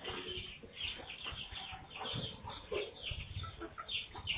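Birds making soft, short calls, several a second, with small chirps and clucks overlapping.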